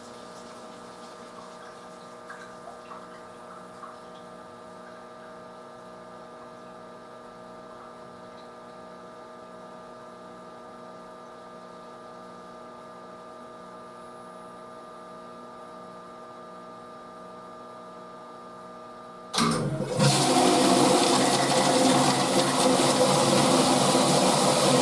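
Drum-type washing machine running with a steady hum and a few faint clicks, then a sudden loud rushing noise starts about 19 seconds in and keeps going.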